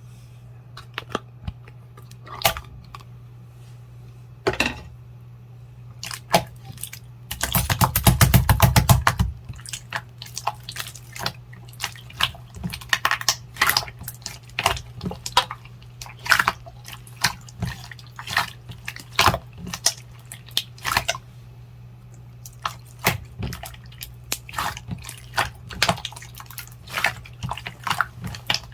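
Clear jelly slime squished and poked by hand, giving irregular sharp wet clicks and pops, with a dense run of rapid clicking about eight seconds in. A steady low hum lies underneath.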